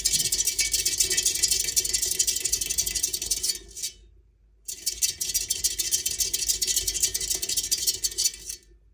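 A squirrel gnawing a hard nut shell with its teeth: a fast, dense run of scraping clicks that stops for about a second midway, then carries on and breaks off near the end.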